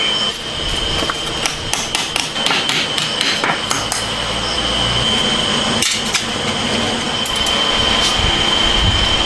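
Sharp, irregular taps and knocks of hand-tool work, densest in the first few seconds, over a steady high-pitched whine and a low rumble that grows louder in the second half.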